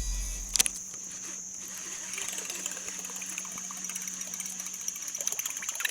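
A low rumble fades out in the first second. Then a fast, fine clacking and churning on the water sets in, typical of a buzzbait being retrieved across the surface, over a steady high-pitched drone.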